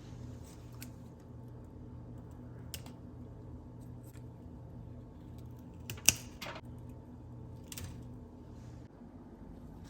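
Scattered light clicks and taps of small objects being handled, with one sharp click about six seconds in, over a steady low hum.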